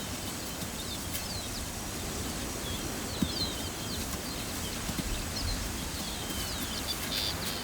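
Outdoor bush ambience: small birds chirping in many short, high calls throughout, over a steady low background rumble.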